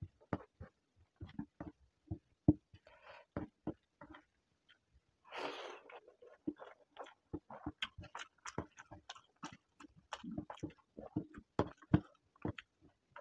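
Close-miked mouth sounds of a man eating rice and egg curry by hand: wet chewing, lip smacks and small clicks in an irregular patter, with one longer hissing sound about five seconds in.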